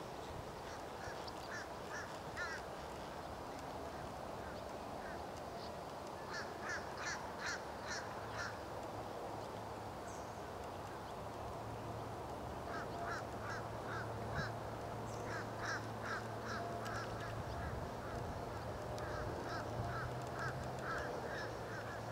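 Birds calling off camera, short pitched calls repeated in quick runs of four to six, five runs in all, over a faint low steady hum.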